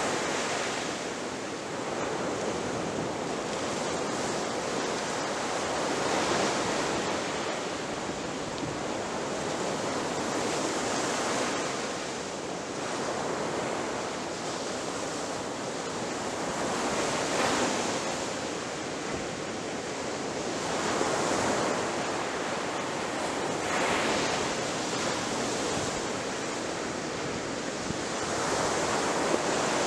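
Ocean surf: waves breaking on a shore as a continuous wash, swelling louder every few seconds as each wave crashes.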